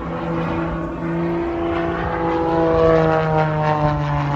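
Propeller-driven stunt plane flying past. Its engine note drops in pitch as it goes by, and it is loudest about three seconds in.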